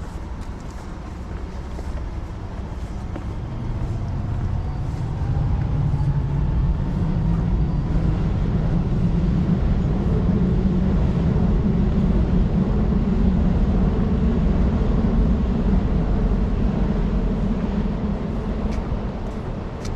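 Low rumble of a passing vehicle that swells about five seconds in, holds, and eases off near the end.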